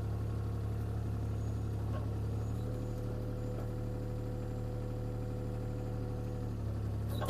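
CAT 303C CR mini excavator's diesel engine running at a steady speed, a constant drone with an even hum.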